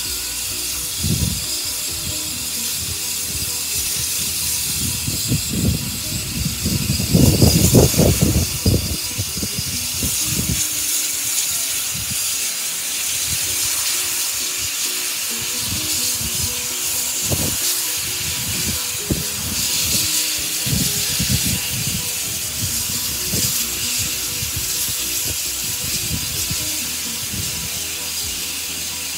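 Steam locomotive, pannier tank 7714, with a steady hiss of escaping steam and irregular low thumps, loudest about a quarter of the way through.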